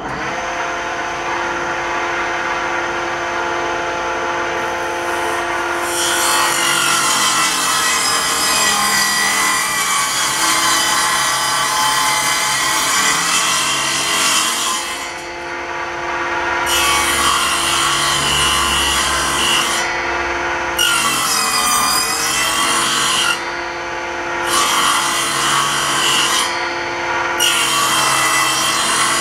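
Homemade table saw's motor and spindle-driven blade running, then ripping through wood from about six seconds in. In the second half the cutting comes in several passes with short breaks, and the motor's pitch sags under load about two-thirds through.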